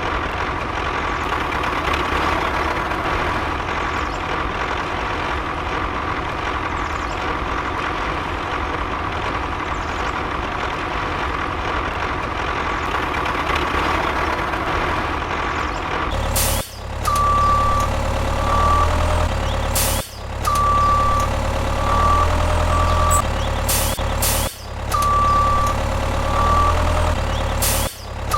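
A small electric motor of a model tractor running steadily with a thin whine. About two-thirds of the way through, this gives way to electronic music with short repeated beeping notes over heavy bass, broken by several abrupt cuts.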